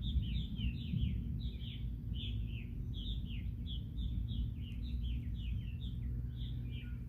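Birds chirping in a rapid string of short, downward-sliding calls, about three a second, over a low steady rumble.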